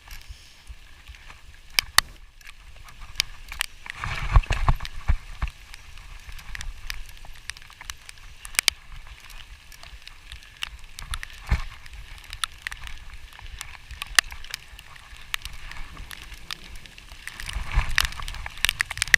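Rain falling, with irregular sharp taps of drops striking the recording device. Two spells of low rumble come about four seconds in and near the end.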